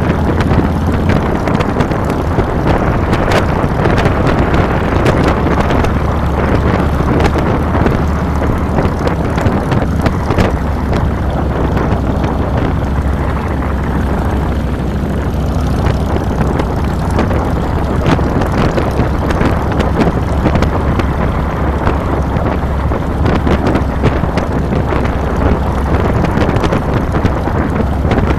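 Harley-Davidson Fat Boy's V-twin engine running steadily as the motorcycle is ridden, with wind buffeting the handlebar-mounted microphone.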